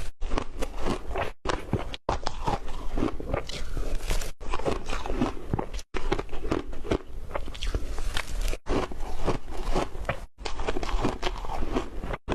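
Ice being bitten and crunched close to the microphone: dense, sharp cracking and crunching with chewing, cut off by several brief sudden silences.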